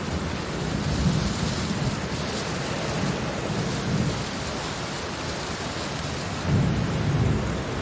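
Heavy steady rain with thunder rumbling low underneath, swelling a few times, most strongly near the end.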